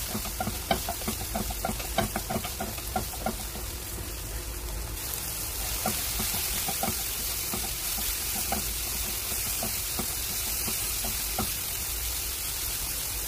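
Chopped tomatoes, onion and cumin sizzling in ghee in a coated frying pan while being stirred. Light knocks and scrapes of the stirring are frequent for the first few seconds and fewer after, over a steady sizzle.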